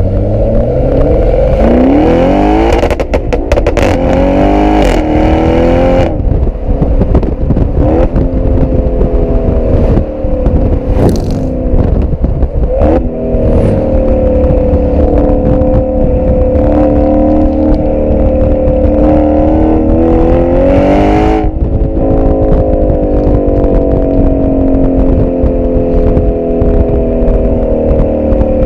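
Twin-turbo 4.0 litre V8 of a tuned Audi RS6 C7 through an Akrapovic exhaust, heard from a microphone at the rear of the car under way. It accelerates with rising pitch, with a cluster of sharp crackles about three seconds in and single cracks at several shifts, holds a steady note for several seconds, climbs again, then settles into a slowly falling note. Wind rumbles on the microphone throughout.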